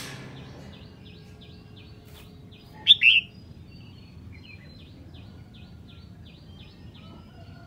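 Red-whiskered bulbul singing: one loud two-part call about three seconds in, over a faint run of short repeated chirps, two or three a second.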